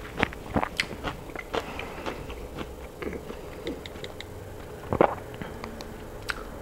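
A person chewing food close to a clip-on microphone, with scattered small wet mouth clicks and one sharper click about five seconds in.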